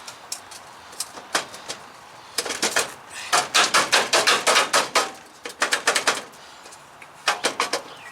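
Hand-tool work on the truck: runs of quick, sharp metallic clicks, about seven a second, the longest and loudest run in the middle and shorter runs before and after.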